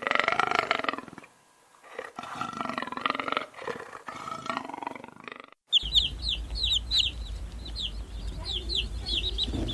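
A large animal roaring and growling in several long calls for about five and a half seconds. Then a sudden cut to rapid, high-pitched bird chirping over a steady low hum.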